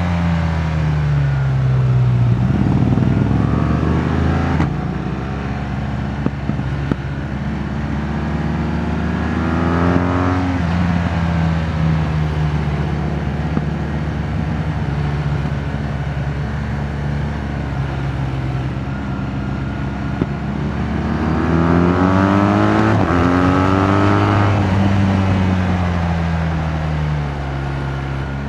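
BMW R 1200 GS Adventure's liquid-cooled boxer twin running under way, its revs climbing and falling as the bike accelerates and cruises. The pitch drops sharply about five seconds in, at a gear change, climbs again around ten seconds and again past twenty, then falls gradually near the end.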